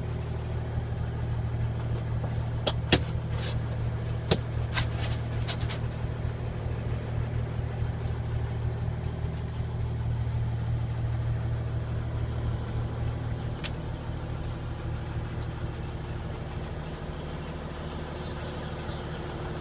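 The Kenworth's Cummins N14 diesel idling steadily, heard from inside the cab, with a few sharp clicks in the first five seconds and one more past the middle.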